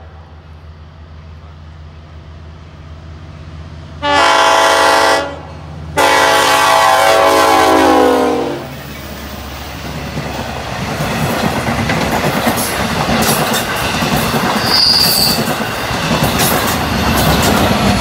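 LIRR DM30AC locomotive approaching with its diesel engine humming, sounding its K5LLA five-chime horn twice: a short blast about four seconds in, then a longer one that drops in pitch as the locomotive passes. The train then rushes by with clattering wheels on the rail joints and a brief wheel squeal.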